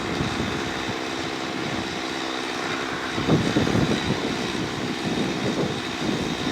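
Strong wind gusting against the microphone, a rumbling buffet that grows from about three seconds in, over a faint steady hum in the first half.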